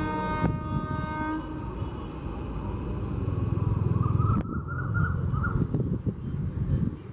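Indian Railways WAP-4 electric locomotive sounding its air horn for about a second and a half, then the low rumble of the approaching train, growing to its loudest about four seconds in.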